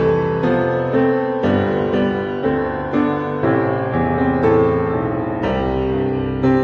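Instrumental piano music, with chords and notes struck about twice a second.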